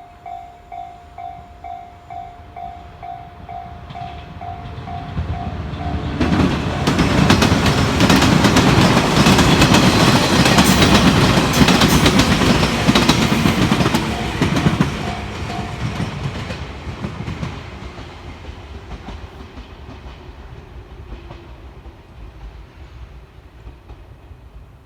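Japanese level-crossing warning bell, the JR-type electronic ding, ringing about two and a half times a second. About six seconds in, a Shinano Railway electric train passes over the crossing with its wheels clacking on the rail joints, loudest through the middle, then fading away over the last several seconds.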